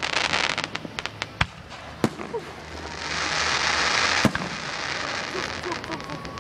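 Aerial fireworks shells bursting overhead. A quick run of crackling pops opens, then sharp bangs come about a second and a half and two seconds in and again past four seconds. Between about three and five seconds in there is a long, loud hiss.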